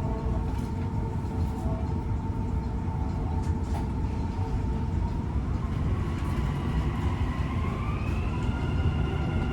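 Dubai Metro train pulling away, heard from inside the carriage: a steady low rumble with an electric motor whine that climbs in pitch about six to eight seconds in as the train picks up speed, then levels off.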